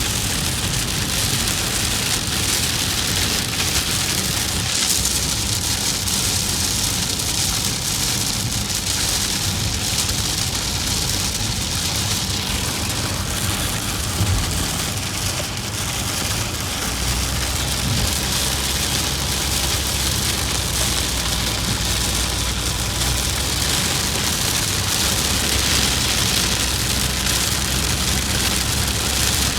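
Rain hitting a moving car, a steady hiss over a low, even rumble of road and engine noise.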